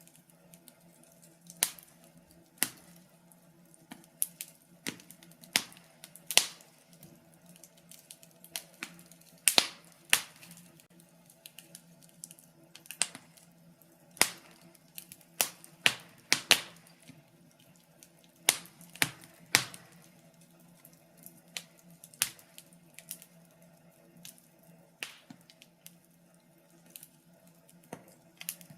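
Wood fire crackling in a fireplace: burning logs pop and snap at irregular intervals, some clicks sharp and loud, over a faint steady hum.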